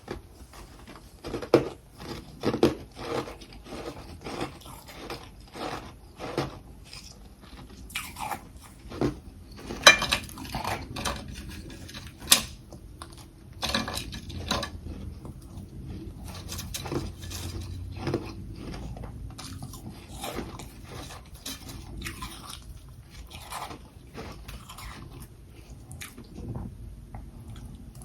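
Close-up crunching of a person biting and chewing humidifier-grown freezer frost packed with crushed ice, in irregular sharp crunches, the loudest near the middle, then denser, softer chewing.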